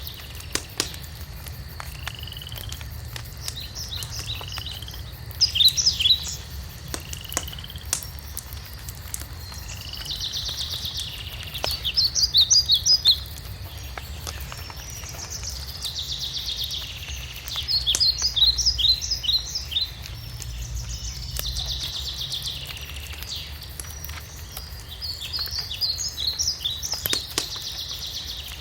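A songbird singing the same phrase over and over, about every six seconds: a buzzy run followed by a quick series of sharp notes, with shorter single calls in the first few seconds. Under it, wood crackles and pops in a fireplace with a steady low rumble.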